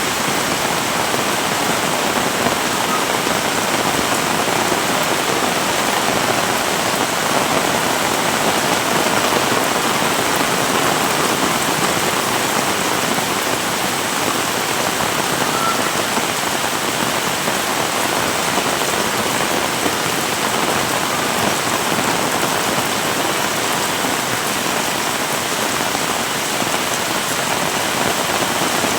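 Heavy rain pouring down and pattering on surfaces, a steady, dense hiss with no letup.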